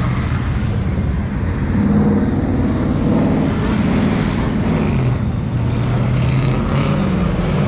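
Loud V8 muscle-car engine running, its pitch climbing as it revs about two seconds in and settling lower a few seconds later.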